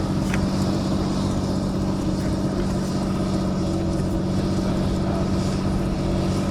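Light aircraft piston engine running steadily at a constant pitch, a continuous drone.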